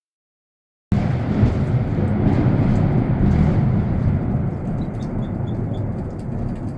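Thunderstorm sounding: a loud, steady low rumble with a rushing hiss that cuts in abruptly about a second in and eases off slightly, with five faint high peeps near the end.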